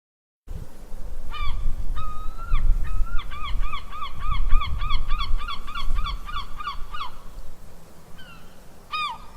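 Gull calling: a couple of drawn-out calls, then a fast run of about a dozen short calls, roughly three a second, then two more calls near the end, over a steady low rumble.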